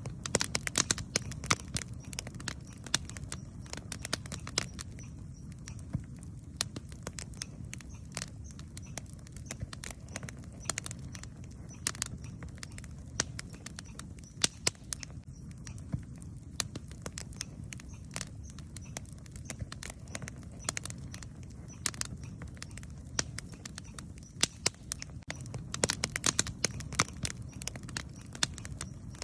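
Wood campfire crackling: irregular sharp pops and snaps, in denser flurries near the start and near the end, over a low steady rumble.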